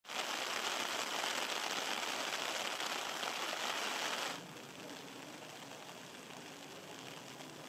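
Heavy rain falling with a steady hiss, which cuts off about four seconds in to a quieter, even background hiss.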